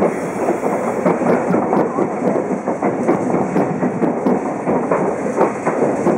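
JR Kyushu 817 series electric train running, heard from inside the passenger car: steady wheel-on-rail noise with many small clicks from the track.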